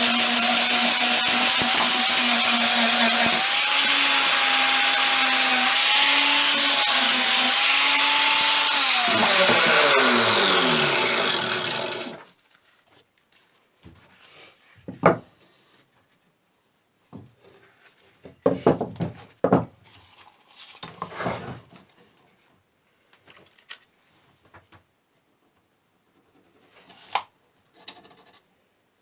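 Electric power tool running hard against a workpiece with a steady motor whine and a harsh hiss. About nine seconds in it is switched off, its pitch falling as it winds down. Scattered knocks and scraping of parts being handled follow.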